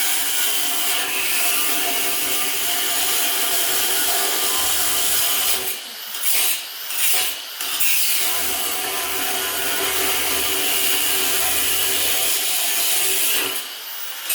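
Angle grinder cutting into the thick steel wall of a safe, running steadily under load with a constant whine. The cut eases off briefly three times about six seconds in, and again near the end.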